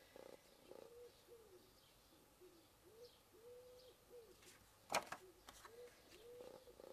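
A bird cooing faintly in a run of soft coos, each a short rise and fall in pitch, with a single sharp click about five seconds in.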